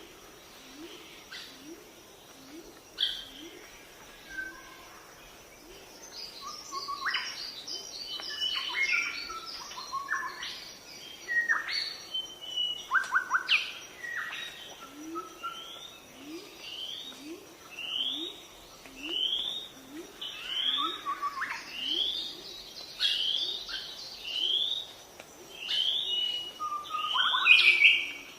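Several birds singing and calling together: a low, rising note repeated over and over beneath quick high whistles and chirps, which grow busier and louder after the first few seconds. Later a repeated upslurred whistle comes about once a second over a steady high-pitched hum.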